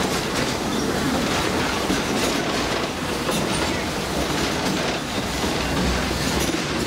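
Walt Disney World Railroad steam train heard from its open-sided passenger car, rolling steadily along the track with a continuous rumble and scattered clicks of the wheels over the rails.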